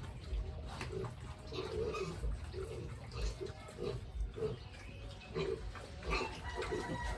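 Pigs grunting, a run of short grunts about every half second, with some low thumps among them.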